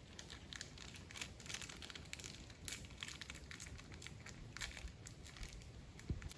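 Crinkling and crackling of dry material being handled, a dense run of small irregular crackles.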